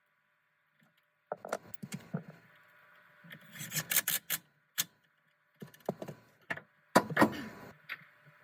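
Irregular clinks, knocks and short rattling clatters of metal tools and parts being handled, with a loud clatter about seven seconds in.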